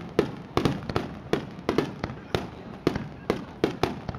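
Fireworks display, shells bursting in a rapid, irregular string of sharp bangs, about three a second, each with a short ringing decay.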